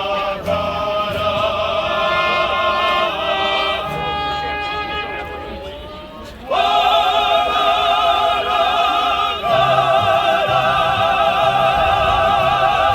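Live mariachi music: long held notes with wide vibrato, which get suddenly louder about six and a half seconds in, with short bass notes beneath from about nine seconds on.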